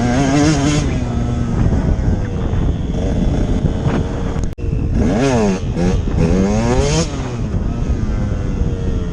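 Motocross bike engine revving up and down, its pitch rising and falling several times as the throttle is opened and shut through the turns. The sound cuts out for an instant about halfway.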